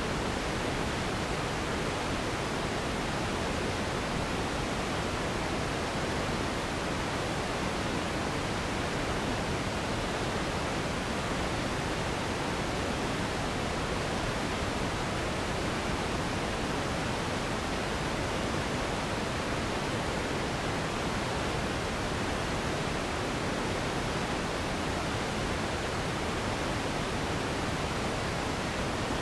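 Steady relaxation noise: an even, unchanging hiss, fuller in the lower and middle range than at the top, with no breaks or events.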